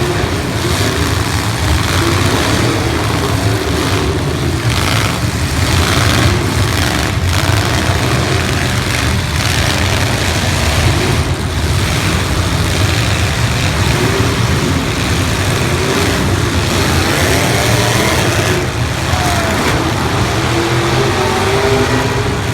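Several demolition derby cars' engines revving and running hard together, with a few sharp bangs between about four and seven seconds in and again near the middle.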